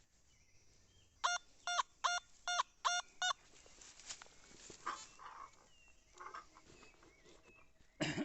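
A bird gives a quick series of six honking calls, about three a second, then stops.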